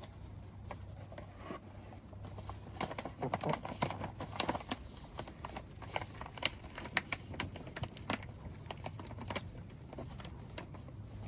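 Chickens pecking at dried black soldier fly larvae: irregular sharp taps and clicks, busiest in the middle, over a steady low hum.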